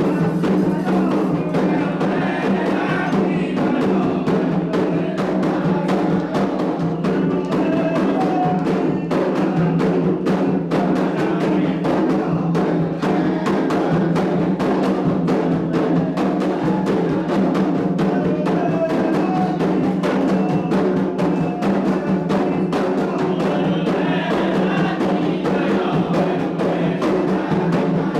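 Candomblé ritual drumming: atabaque hand drums played in a fast, continuous pattern, with a bell or wood-block-like strike running through it.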